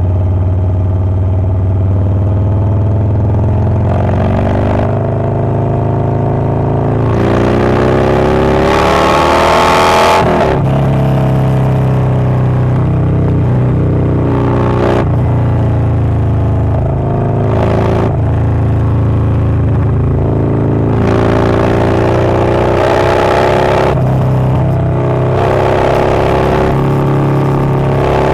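Harley-Davidson Low Rider S with a Milwaukee-Eight 117 V-twin and a Wood Performance 777XE cam running, its pitch rising over a few seconds then dropping back several times as it is revved or accelerated, the biggest rise about seven to ten seconds in.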